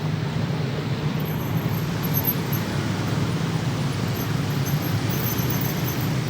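Steady vehicle rumble, with faint high-pitched squeaks coming and going.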